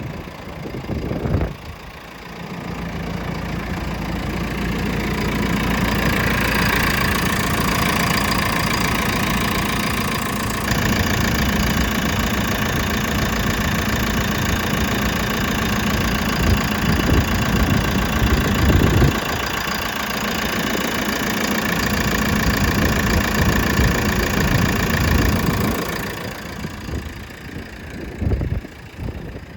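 JCB 3CX backhoe loader's diesel engine idling steadily, heard close with the hood open. It grows louder about two seconds in and falls away near the end.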